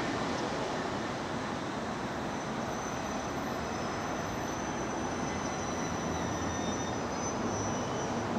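JR East E721-series electric train pulling into a platform and slowing to a stop, with a steady rush of running noise. A thin high-pitched whine comes in about two seconds in and fades out just before the train stops.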